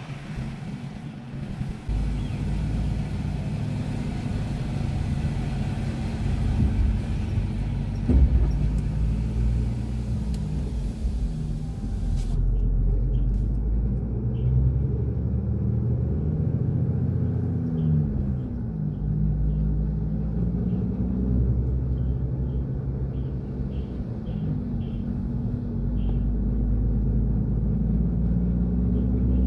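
Steady low engine rumble of a large vehicle, its pitch dipping and rising again a little past the middle.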